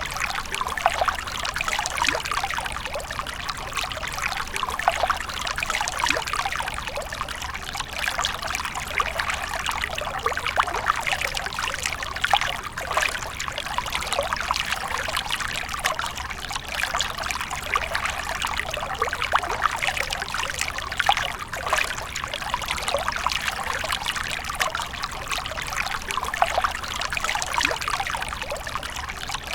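Water fountain splashing and trickling steadily, a continuous dense patter of falling water with no pauses.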